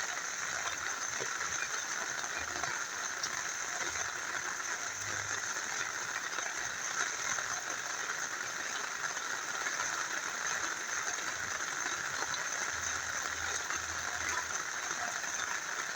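Steady rain falling together with a small river flowing: an even hiss with faint scattered drop ticks.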